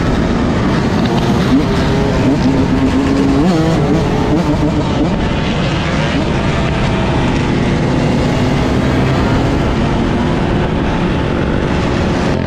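Motor vehicle engines running, their pitch rising and falling as they rev.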